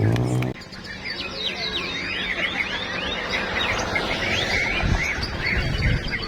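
Many caged songbirds singing at once, a dense tangle of overlapping chirps and whistles. The singing follows a low hum that cuts off suddenly about half a second in.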